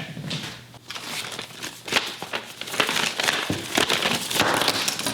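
Crinkling, rustling handling noise with many small irregular clicks and knocks, like something being unwrapped and handled.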